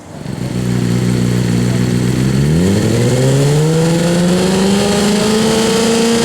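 Kawasaki Ninja ZX-6R inline-four engine revving through a LeoVince Factory R Corsa titanium full race exhaust. It comes in abruptly at a steady held note, then the revs rise smoothly about two and a half seconds in and hold high.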